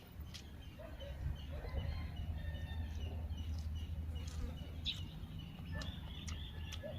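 Birds chirping intermittently over a steady low rumble, with a few short clicks.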